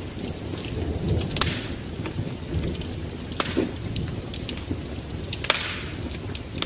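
Wood fire in a fireplace crackling: scattered sharp pops and snaps over a low steady rumble, with three louder pops about two seconds apart.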